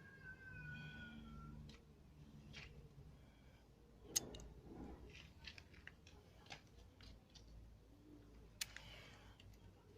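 A drawn-out, high meow-like call that arches in pitch over the first two seconds, followed by faint scattered clicks and taps, the sharpest about four and eight and a half seconds in.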